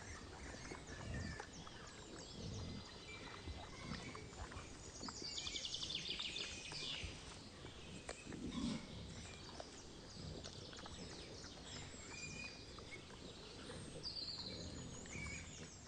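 Wild boar grunting quietly at intervals, with birds chirping in the background about a third of the way in and again near the end.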